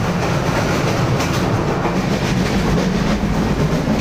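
Passenger train running, heard from inside a carriage: a steady rumble with some rattle and clatter from the wheels and coach.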